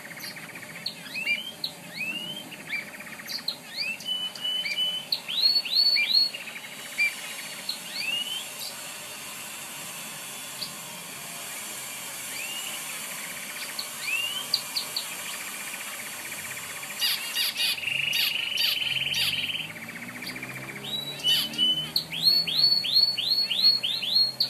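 Domestic canary singing: series of quick rising chirps, a buzzy trill about three-quarters of the way through, then runs of rapid repeated rising notes near the end.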